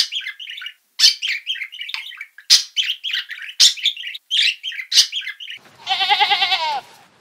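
Budgerigars chattering in quick, high warbled chirps with a few sharp clicks, then about six seconds in a lamb gives one quavering bleat that falls in pitch at its end.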